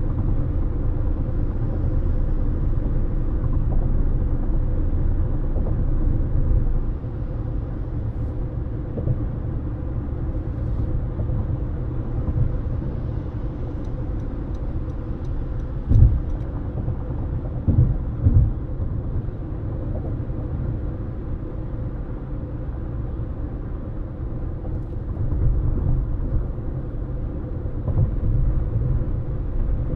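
Steady low rumble of a car driving along a highway, with tyre and road noise. About halfway through come one sharp thump and then two more close together.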